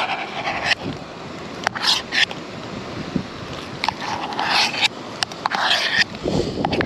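A spoon stirring and scraping mashed potato in a metal camping pot: irregular scrapes with sharp clicks of metal on metal.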